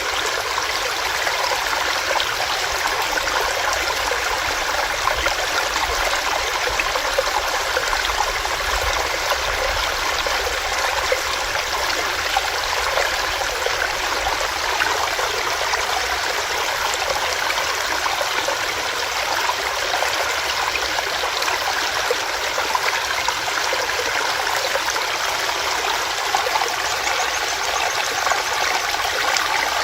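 Small stream running over rocks: a steady, even rush of water with fine splashing and bubbling.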